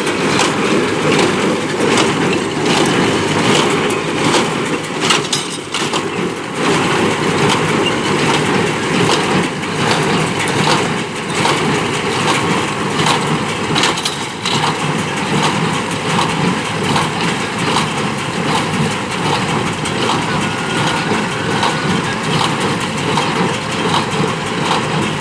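Ford 5000 tractor running steadily as it drives a New Holland BC5060 square baler. The baler's clatter comes through as repeated knocks over the engine noise.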